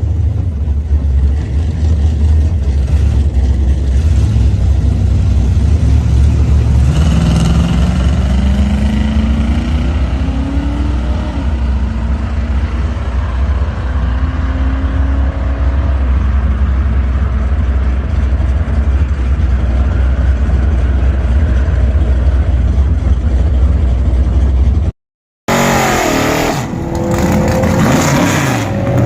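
The Pontiac race car's engine running under load with a heavy, steady low rumble; its pitch climbs over several seconds about seven seconds in. After a brief break, the engine revs up again and drops in pitch near the end, like an upshift.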